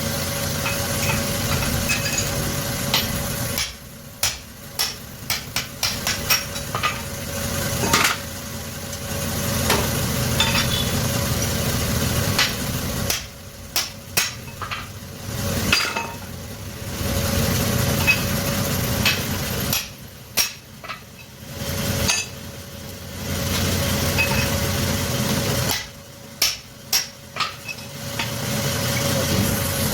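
Workshop machine running in stretches of a few seconds, with a steady low hum. It alternates four times with quieter spells of sharp metallic knocks and clinks, typical of the bush-boring work on a twin-head boring machine.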